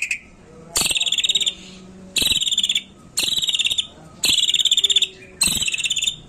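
White-rumped shama (murai medan) singing a run of rapid pulsed trills, five short phrases about a second apart.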